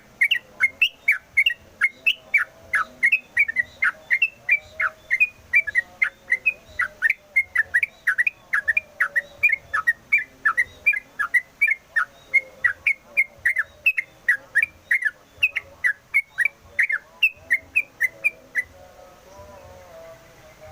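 Yellow-vented bulbul (trucukan) singing a long, fast run of short, sharp whistled notes, about four a second, without a break, stopping suddenly near the end.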